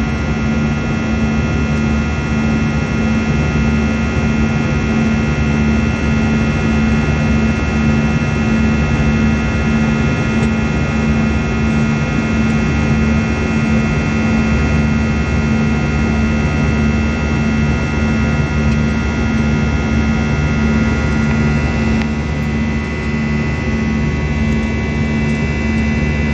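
Airbus A321 jet engines heard from inside the passenger cabin: a loud, steady drone with several fixed tones over a constant rushing noise. The upper tones shift slightly about twenty-two seconds in.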